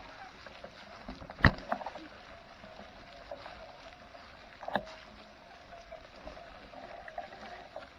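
A distant chainsaw running steadily as a faint drone. Two sharp knocks break it, the loudest about one and a half seconds in and a smaller one near five seconds in.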